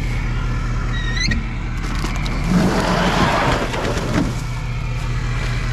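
Vehicle engine running with a steady low hum. A brief rising squeak comes about a second in, and a rush of noise swells and fades about three seconds in.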